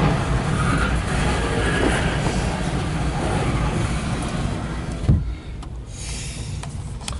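Diesel locomotives at the head of a loaded coal train passing close by, a heavy low engine rumble. About five seconds in there is a sharp knock and the sound drops suddenly to a quieter rushing noise.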